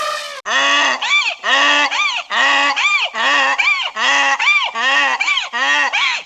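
Domestic waterfowl honking in a loud, rapid series of calls, about three a second, each call rising and falling in pitch.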